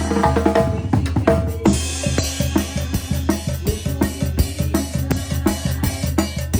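A Mexican banda playing, with busy, rhythmic drums over a steady low bass line and brass parts.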